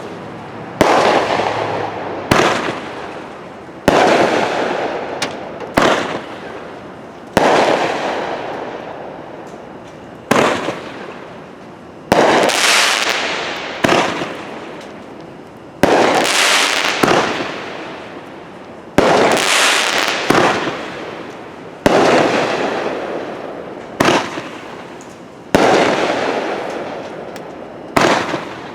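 A 500-gram consumer firework cake firing its shots one after another: sharp bangs every one to two seconds, each followed by a hissing tail that fades away before the next.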